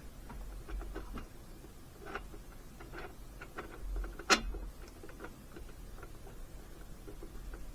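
Small scattered clicks and ticks of a new spark plug and a gapping tool being handled, with one sharper click about four seconds in.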